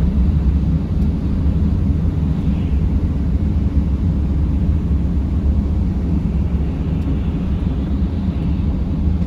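Steady low rumble of a van driving, engine and tyre noise running evenly with no change in pace.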